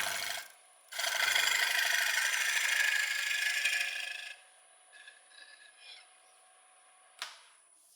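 A turning tool cutting into a wet maple bowl blank spinning on a wood lathe: a loud scraping hiss of shavings with a short break just after the start, stopping about four seconds in. Then only faint scrapes, and a single sharp knock near the end.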